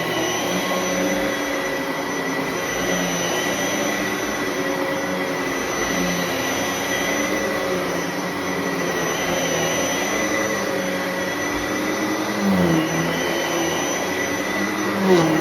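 Bissell Heavy Duty (93Z6) bagless upright vacuum running steadily on suction only, with the brush roll off. Its motor and airflow drone holds steady tones, and the pitch dips briefly twice near the end, each time with a brief rise in loudness.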